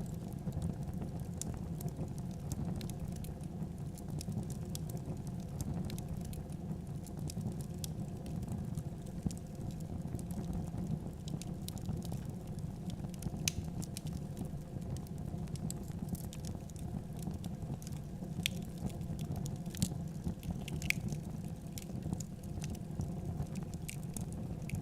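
Wood fire burning in a fireplace: a steady low rumble with scattered crackles and pops, a few sharper pops in the second half.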